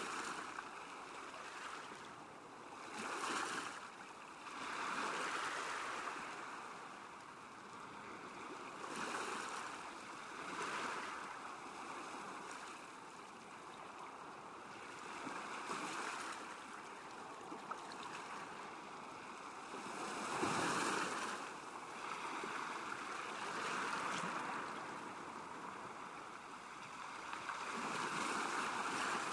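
Small waves lapping on a lake shore, the water noise swelling and fading every few seconds.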